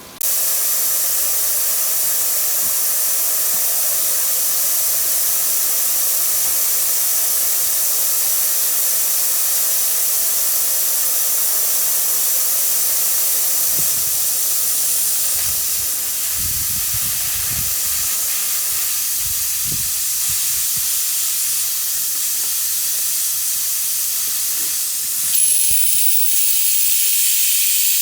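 Compressed air hissing steadily through an air-powered oil siphoning tool (evacuator), the suction running as it draws engine oil out. The hiss starts abruptly and shifts in tone near the end.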